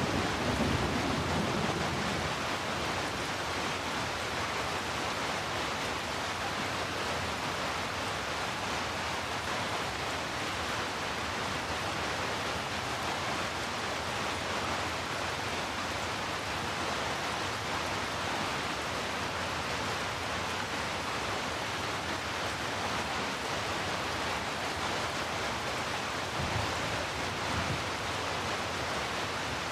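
Steady heavy rain, an even hiss with no separate drops standing out. The tail of a thunder rumble dies away in the first two seconds, and a faint low rumble comes again near the end.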